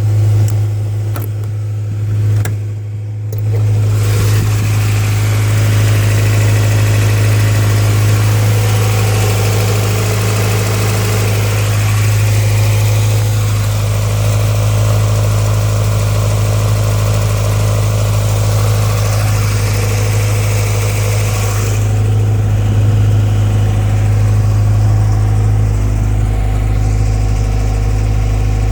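Honda B18C 1.8-litre DOHC four-cylinder with Toda C camshafts idling steadily after a cold start.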